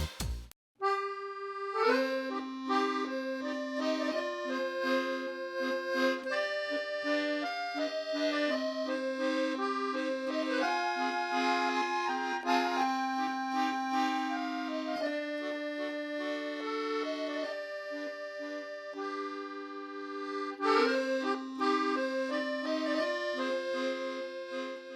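Accordion music: a melody played over held lower notes, beginning just after a brief silence.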